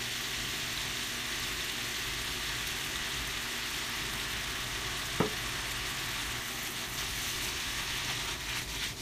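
Beef, green peppers and carrots stir-frying in a hot frying pan: a steady sizzle, with one sharp click about five seconds in.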